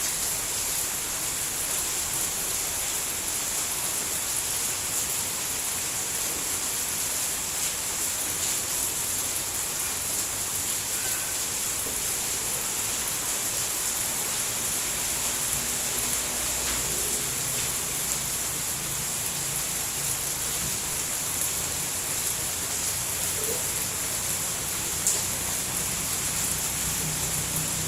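Steady rain falling, a dense even hiss, with one sharp drip-like tick about three seconds before the end and a faint low hum coming in during the second half.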